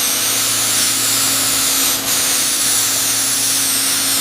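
A steady, loud hiss with a steady low hum underneath, like a machine or spray running; it dips briefly about two seconds in.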